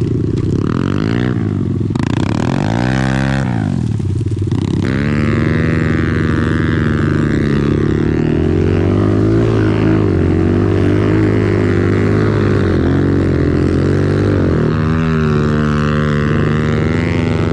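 Off-road vehicle engine revving up and down several times, then held at steady high revs under load while climbing a hill.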